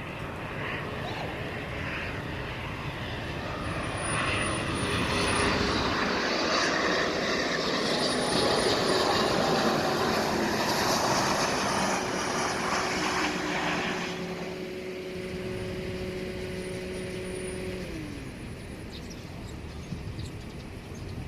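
A Gulfstream business jet's twin turbofan engines passing by: the jet roar swells to its loudest around the middle, then fades, and a steady engine whine drops in pitch as the jet goes past, about three-quarters of the way through.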